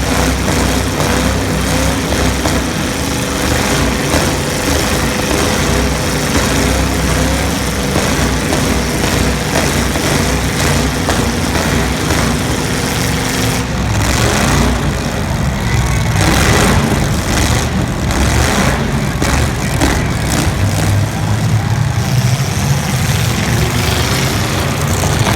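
Demolition derby cars' engines running loudly, the revs shifting as they drive.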